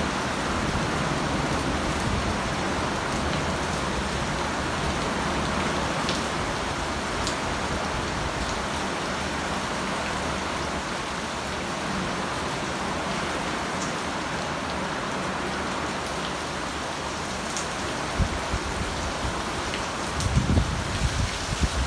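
Heavy rain pouring down in a steady hiss, with scattered individual drops ticking. A few low thumps come near the end.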